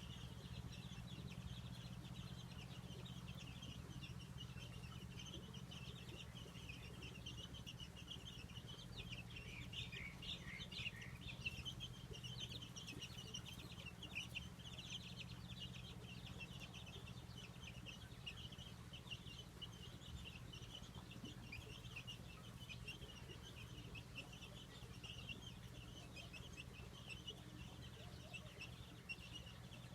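Faint, steady chorus of birds chirping in rapid high notes, busier about a third of the way in, over a steady low hum.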